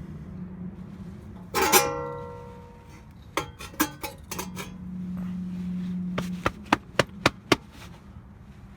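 A metal part struck or dropped, ringing for about a second, followed by a few clicks and then a quick run of six sharp metallic taps, about four a second.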